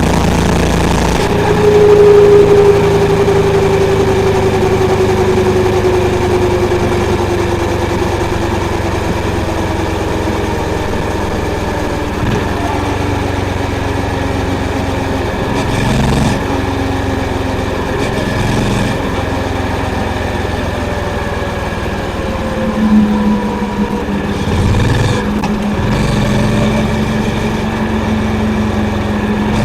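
Honda CB350's single-cylinder engine and exhaust on the move: the engine is opened up about two seconds in, then its note falls slowly over about ten seconds as the bike slows. A few short throttle surges follow before it settles to a steadier note near the end.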